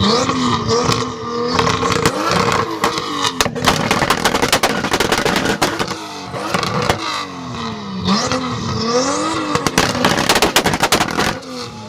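Tuned car engines on two-step launch control, the revs rising and falling over and over while the exhaust crackles with rapid pops and bangs. The popping is densest a few seconds in and again near the end.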